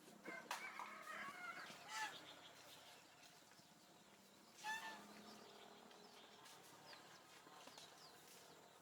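Chickens calling faintly, a cluster of short calls in the first two seconds and one louder call about halfway through.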